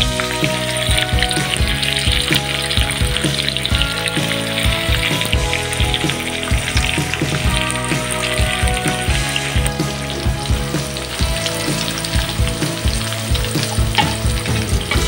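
Sliced red onions and garlic sizzling in hot oil in a wok, with a metal spatula stirring and scraping against the pan.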